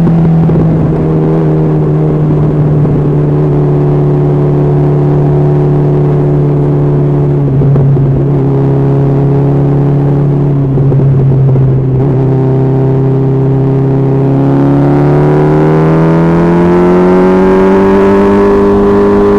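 Honda CB1300SF's inline-four engine running steadily at highway speed, its pitch easing down slightly, then rising smoothly over the last four seconds or so as the bike accelerates, with wind rumbling on the microphone underneath.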